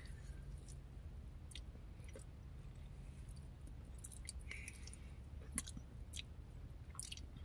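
Close, quiet chewing and wet mouth smacks as a person gnaws cold oven-baked fried chicken off the bone, with scattered short clicks. A faint low hum runs underneath.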